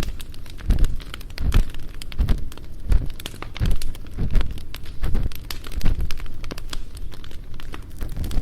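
Ear pick scraping and rubbing in slow, even strokes, a little more than one a second, close to a binaural dummy-head microphone's ear, over the crackle of a campfire.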